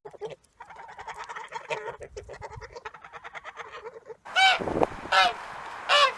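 Waterfowl calling: a fast run of short chattering calls, then three loud honking calls a little under a second apart.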